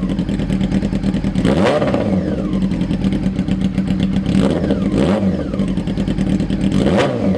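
1999 Yamaha YZF-R6's inline-four engine through an Austin Racing aftermarket exhaust, idling and blipped four times, each rev rising quickly and dropping back to idle. Two of the blips come close together about halfway through.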